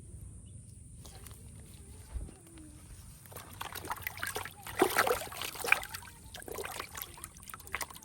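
Water sloshing and splashing in irregular bursts, loudest about five seconds in.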